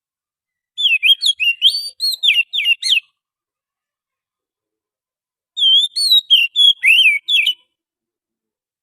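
Oriental magpie-robin singing: two phrases of quick, sweeping whistled notes, each about two seconds long, with a pause of a couple of seconds between them.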